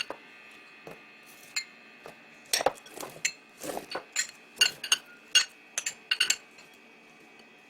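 Dishes and cutlery clinking and knocking: about a dozen sharp clinks over a few seconds as tableware is set down and handled on a table.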